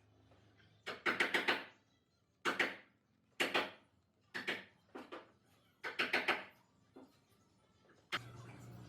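Sharp knocks, singly and in quick runs of three or four, with a short ring after each. Near the end a machine starts up and runs with a steady low hum.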